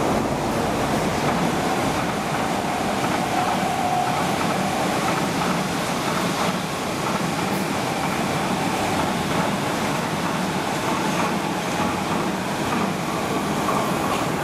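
Metro Cammell electric multiple unit train passing close by on the track, a steady noise of wheels on rails, with a brief faint whine about four seconds in.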